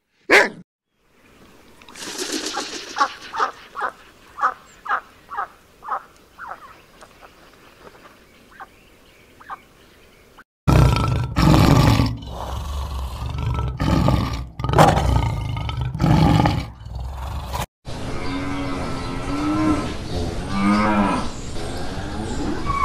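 A run of short rhythmic grunting calls, about two a second, fading away. Then a lion roaring: several loud, deep, heavy calls. Near the end a cow moos in long wavering calls.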